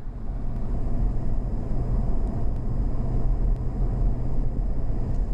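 Steady engine and road rumble of a motorhome driving along the highway, with a faint high whine over it.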